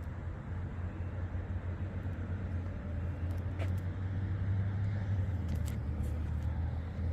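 1994 Chevrolet Blazer's 5.7-litre 350 V8 running with a steady low hum, a little louder about four to five seconds in, with a few faint clicks.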